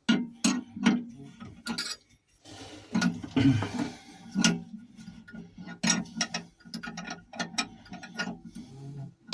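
Socket ratchet clicking in short, irregular runs as the engine mount nuts are tightened down after aligning the engine.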